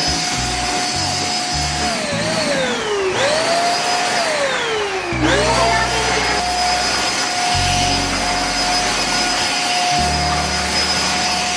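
JML handheld vacuum cleaner's motor running with a steady whine. About two seconds in it winds down as it is switched off, then spins up again; it winds down a second time and spins back up about five seconds in, and it starts to wind down again at the very end.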